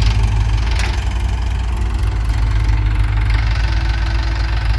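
Diesel engine of a tractor or loader running steadily at an even speed, with a deep, constant rumble. A short click sounds just under a second in.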